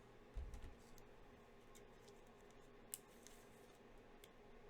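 Near silence: faint room tone with a few soft clicks and a low thump about half a second in.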